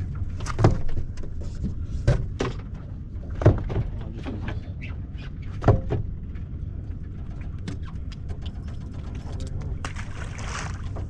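A few sharp knocks and clatters of gear being handled on a fishing boat's deck, over a steady low rumble. A brief hiss comes near the end.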